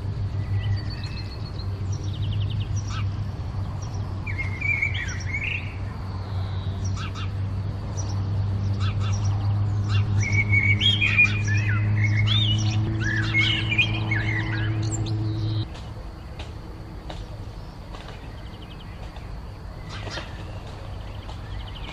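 Several small birds chirping and singing, with a short burst of quick, sliding notes in the middle. Underneath runs a steady low hum that cuts off suddenly about two-thirds of the way through.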